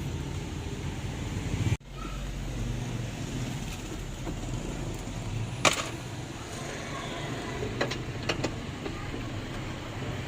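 Steady low rumble of a car engine running, with a few sharp clicks and taps in the second half. The sound breaks off abruptly about two seconds in and resumes.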